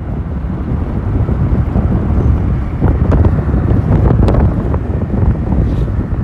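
Wind buffeting the microphone of a passenger riding on a moving motorcycle taxi: a loud, steady, dense low rumble.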